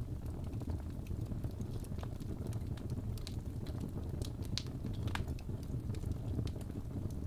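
Wood fire crackling in a fireplace: a steady low rumble with scattered sharp pops and snaps, most of them near the middle.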